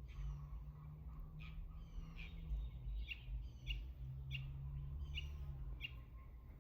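A small bird chirping over and over: short, high, falling chirps about every three-quarters of a second, over a low steady hum.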